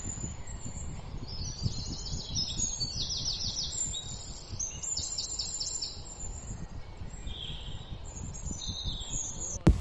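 Small birds chirping in several short, rapid series of high notes, over a steady low rumble of outdoor background noise.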